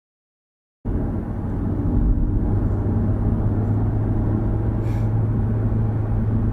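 Dead silence, then from about a second in a steady low rumble of a moving car's engine and road noise, with a constant low hum.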